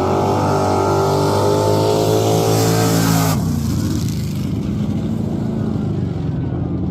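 555 cubic-inch big-block Chevy V8 drag engine on nitrous at full throttle down the strip, its pitch climbing steadily for about three seconds, then dropping abruptly and carrying on lower and steadier.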